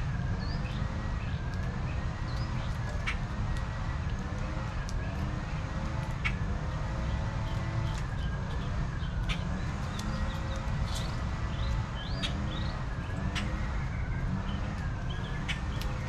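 Backyard birds chirping in short scattered calls over a steady low rumble, while a distant siren wails slowly up and down throughout.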